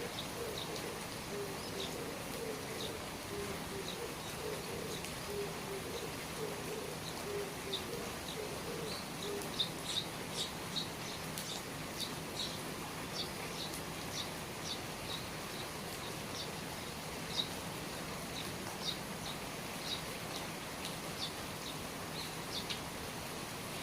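Steady rain falling, with a bird chirping in short, high, repeated notes through the second half and a low wavering cooing call in the first several seconds.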